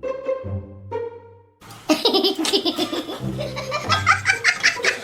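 A short tune of stepped notes, then from about two seconds in a person laughing hard in quick bursts over music.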